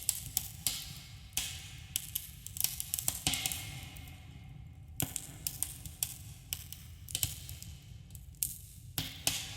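Campfire crackling: irregular sharp pops and snaps of burning wood, with a few short hissing flare-ups over a steady low rumble.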